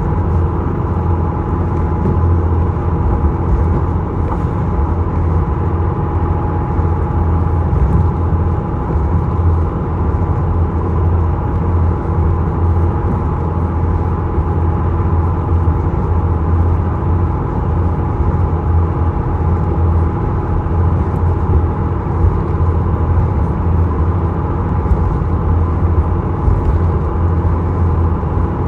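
Isokaze inter-island ferry's engines droning steadily, a constant low hum with a couple of steady higher tones over it.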